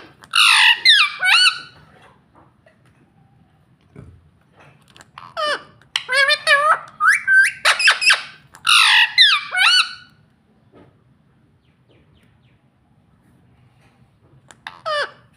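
Indian ringneck parrot squawking in loud, harsh calls that bend in pitch: a burst at the start, a longer run of calls from about five to ten seconds in, and one short call near the end.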